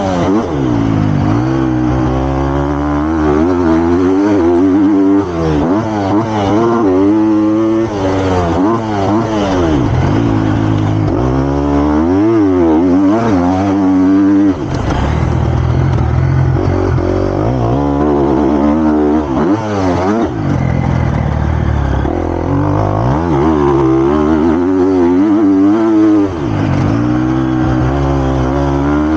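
Triumph TF250-X's 250cc four-stroke single-cylinder engine, ridden hard on a motocross track. Its pitch climbs and drops over and over with throttle and gear changes, with a few brief cuts in the revs.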